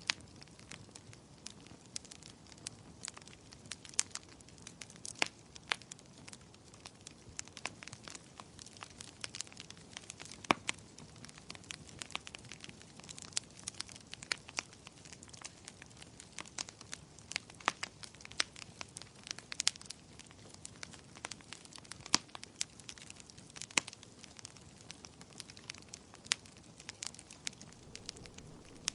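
Wood fire crackling in a fireplace: irregular sharp pops and snaps, some louder than others, over a soft low hiss.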